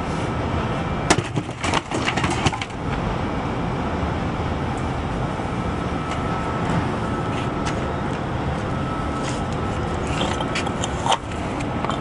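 A 35-pound cinder block, thrown from about 13 feet, strikes the steel corner of a foam-reinforced earthquake shelter about a second in, followed by a second or so of clattering knocks as it tumbles; one more single knock comes near the end, over a steady background rumble.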